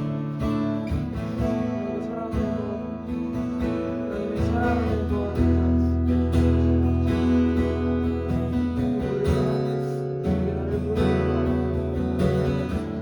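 Acoustic guitar strumming chords, with a sustained bass underneath.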